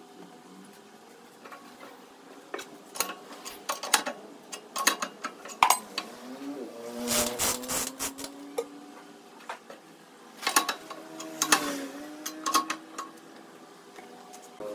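Wood lathe running with a steady hum while a turning tool scrapes and knocks against the spinning wood in irregular bursts. The hum's pitch sags and recovers twice, around the busiest stretches of cutting.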